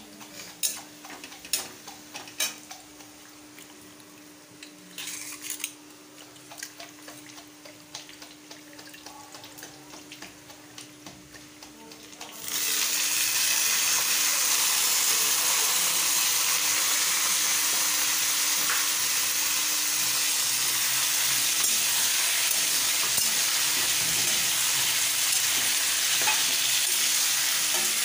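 Sliced onions frying gently in oil in a metal kadhai, a flat metal spatula scraping and tapping the pan. About halfway through, a sudden loud sizzle starts as raw marinated chicken pieces go into the hot oil, and the frying then carries on steadily.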